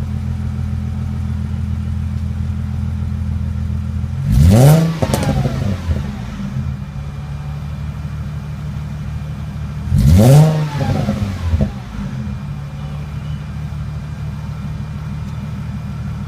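Exhaust of a 2001 Mercedes-Benz C240's 2.6-litre V6, with the second catalytic converter and resonator deleted and a Magnaflow muffler, idling steadily and blipped twice, about four seconds in and again about six seconds later, each rev rising and falling quickly back to idle.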